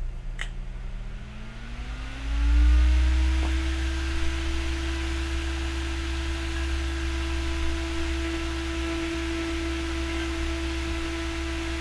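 A motor spinning up: a hum rises in pitch over about two seconds, then holds a steady whine with a low rumble under it.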